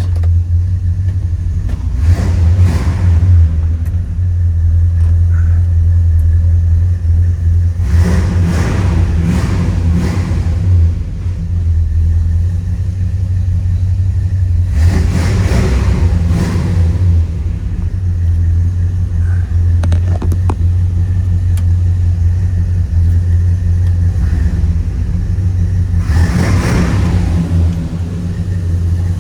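1971 Chevrolet El Camino's 350 small-block V8 idling with a steady low hum, with four louder swells of two to three seconds each.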